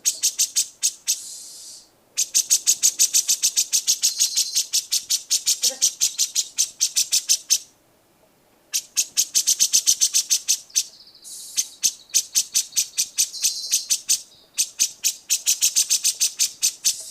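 A songbird giving long runs of rapid, high-pitched, evenly spaced chips, about five or six a second, broken by short pauses.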